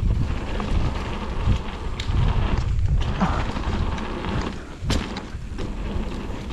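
Wind buffeting the microphone as a low, steady rumble while a mountain bike rides down a trail, with clattering knocks from the bike over rough ground, the sharpest about two seconds in and again near five seconds.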